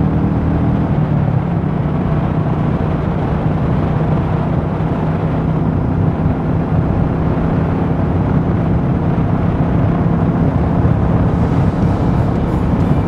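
Royal Enfield Meteor 350's single-cylinder engine running at a steady pitch while riding, with wind rushing over the microphone.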